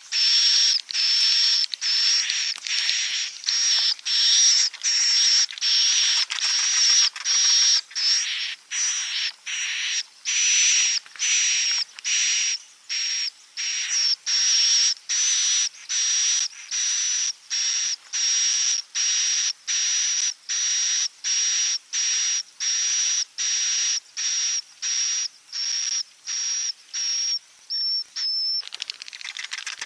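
Swiftlet 'inap' roosting call, the lure sound played in swiftlet nesting houses: a rapid, even series of high buzzy chirps, about two a second. Near the end the chirps break off and a faster, quieter ticking begins.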